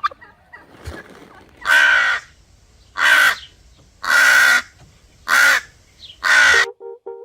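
Crow cawing, five harsh caws about a second apart. A soft plucked tune starts near the end.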